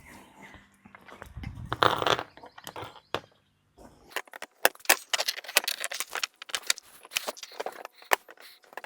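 Metal hardware clinking and clicking as canopy parts are bolted together with small hand wrenches and a ratchet: many sharp, irregular clicks in the second half, after a loud scraping rustle about two seconds in.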